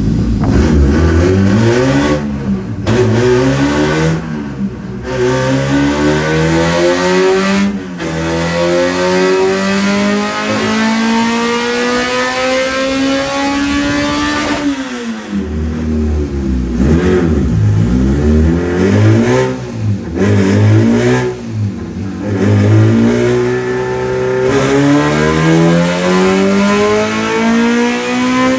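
Honda B20 VTEC four-cylinder engine at full throttle, its pitch climbing steadily through a long pull that cuts off suddenly about halfway. Quick revs up and down follow, then another steady climb near the end.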